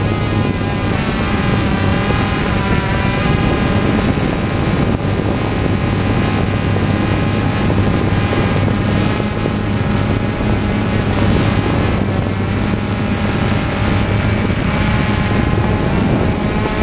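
Steady drone of an aircraft's motors and propellers heard from on board in flight, with a constant low hum under higher tones that waver slowly in pitch.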